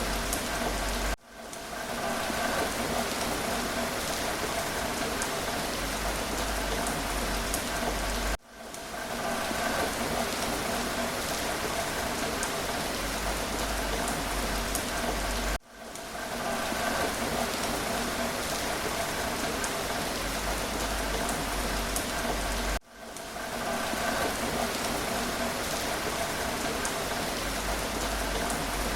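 Steady rain falling, with scattered drop ticks, dipping briefly in level about every seven seconds.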